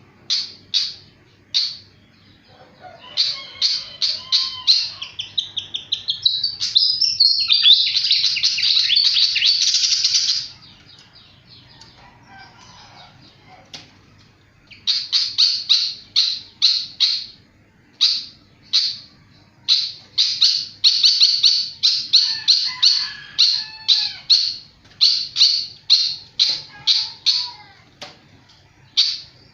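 Sikatan (an Asian flycatcher) singing busily: runs of short, sharp, high repeated notes, with a dense rapid trill about seven to ten seconds in, then a few seconds' pause before the runs of notes start again.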